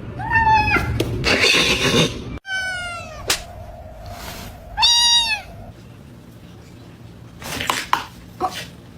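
Domestic cat meowing three times, each meow arching or falling in pitch.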